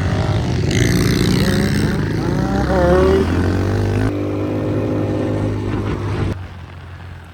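Dirt bike engine running close by, steady with some pitch changes; it cuts off abruptly a little over six seconds in.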